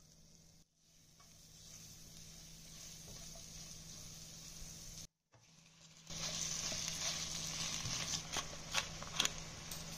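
Minced garlic sizzling in melted butter in a nonstick wok, the sizzle growing steadily. About six seconds in it turns louder as diced raw chicken goes into the hot pan, with a silicone spatula scraping and tapping against the pan near the end.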